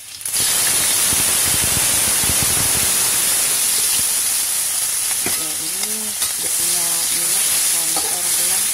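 Dried anchovies and dried shrimp tipped into hot oil with chopped garlic in a steel wok, bursting into loud sizzling frying that starts suddenly and goes on steadily.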